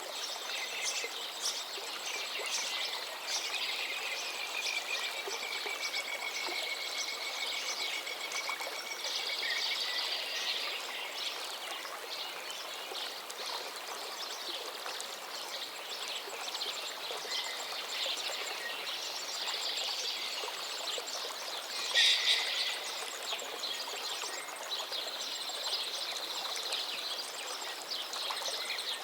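Songbirds singing busily over the steady rush of a flowing forest river, with many quick chirps and trills, one long drawn-out note in the first third and a louder call about three quarters of the way through.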